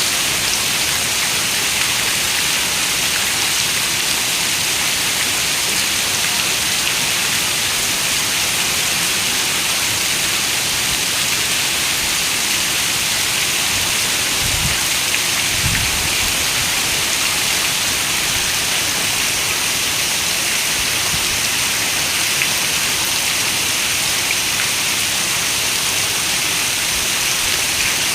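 Steady rain on a window: an even hiss of many drops. A brief low rumble comes a little past halfway.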